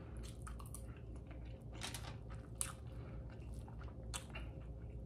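Close-miked chewing of a mouthful of food, closed-mouth, with scattered soft clicks and crackles.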